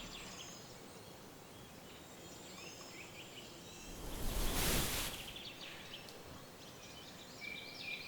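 Faint outdoor meadow ambience with scattered small bird chirps. About four seconds in, a soft whoosh of noise swells and fades over about a second.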